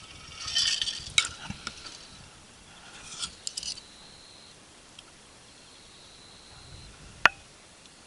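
Camp gear being handled: two bursts of rustling with sharp metallic clinks, the first about half a second in and the second around three seconds in, then a single sharp click a little after seven seconds.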